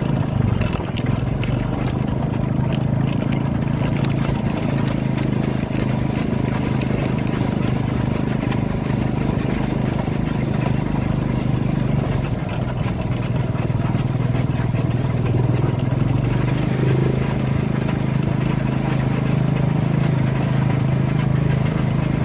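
Motorcycle engine of a bentor, a motorized pedicab, running steadily while it is ridden.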